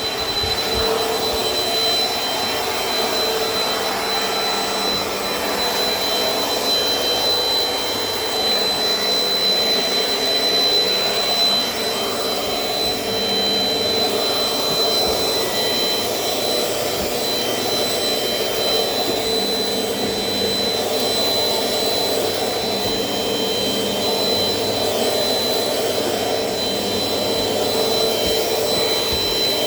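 Dirt Devil Dynamite Plus compact vacuum cleaner running steadily, a high-pitched motor whine over the rush of air.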